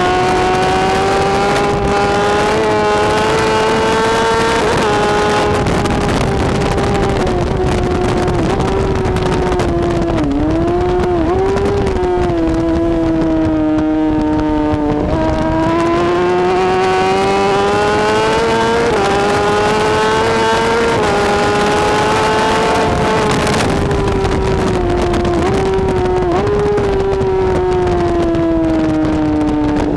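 BMW S1000RR superbike's inline-four engine at racing revs, its pitch climbing and dropping back in steps through the gear changes. It falls off with a couple of brief dips around ten seconds in, reaches its lowest about halfway, then climbs again. A steady rushing noise runs underneath.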